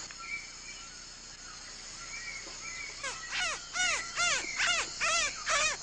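Rainforest ambience of insects droning steadily. From about halfway in comes a fast run of loud, harsh, cawing calls, each rising and falling in pitch, about two a second.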